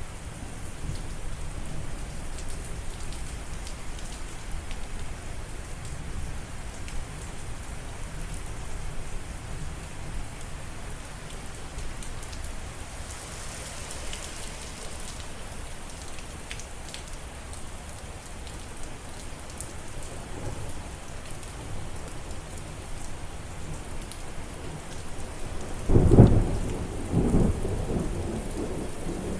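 Steady rain with a low background rumble, and a loud clap of thunder near the end followed by rolling rumbles.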